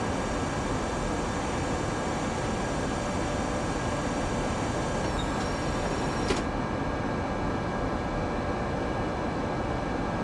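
Steady cabin noise of an Airbus A318 climbing after takeoff: engine and airflow noise with a few steady high whining tones. A short click comes about six seconds in, after which the highest tones drop away.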